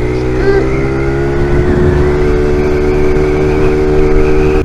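Honda XR70R pit bike's small four-stroke single-cylinder engine running at a steady, even speed while being ridden.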